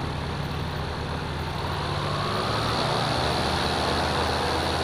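Light aircraft's piston engine running, heard from inside the cabin; about two seconds in its pitch and level rise a little.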